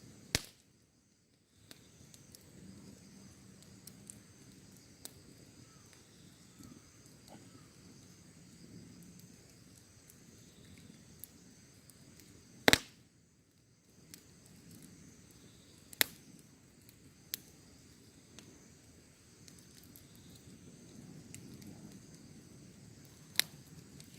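Wood fire crackling: a low, steady flicker of flames broken by sharp pops of burning wood, one near the start, the loudest about halfway through, and a few more after it.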